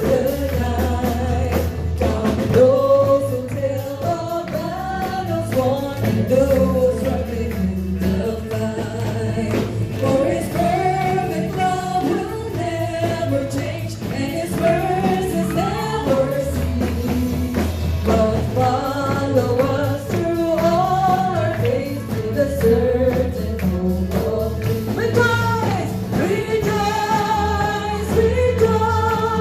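Worship song: singing voices over a band with a steady bass line and percussion.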